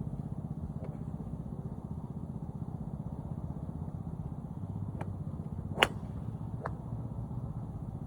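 A sharp crack of a golf club striking a ball, with a couple of fainter clicks around it, over a steady low rumble.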